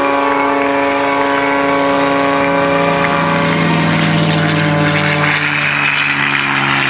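Aerobatic propeller plane's engine and propeller running at high power with a steady drone; about halfway through, the pitch slides lower and a rushing hiss grows louder.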